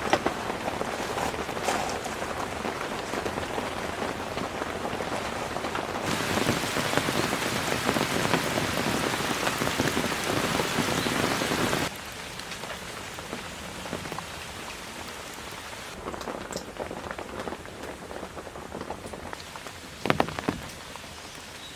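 Heavy rain pattering steadily on the fabric of a large tent shelter, louder for a stretch in the middle and softer after that. A single sharp knock comes near the end.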